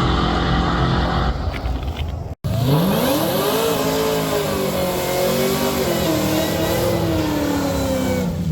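Drag car's engine running at a steady low pitch, then after a sudden cut it revs up in a fast rising pitch and holds high, wavering with small dips, as the car accelerates hard down the drag strip.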